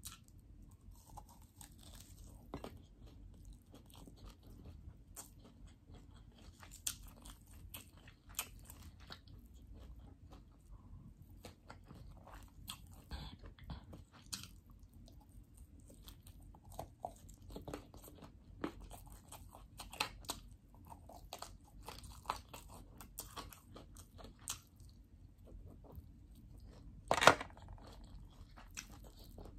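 A person eating fried rice and chicken by hand, close-miked: steady chewing and crunching with many small sharp mouth clicks, and one louder crunch near the end.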